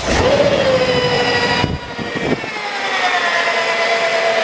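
BMW E38 engine running just after start-up, with a loud whine whose pitch dips and settles, then rises a little later on. The whine is the timing chain rubbing on its plastic guide, which has broken away.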